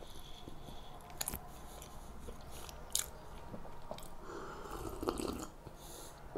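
Close-miked chewing of soft cookies, with a few sharp clicks, then sips of coffee from a ceramic mug about four seconds in.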